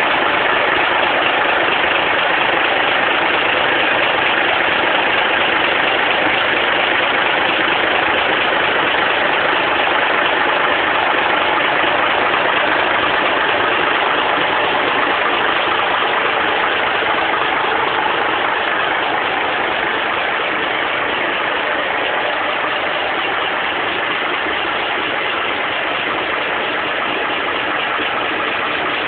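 Tractor's Saviem engine running steadily, a little quieter from about two-thirds of the way through.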